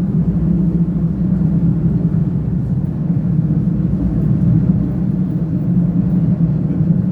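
Diesel railcar (CP diesel multiple unit UDD 0467) under way: a steady low engine drone with rumble, unchanging throughout.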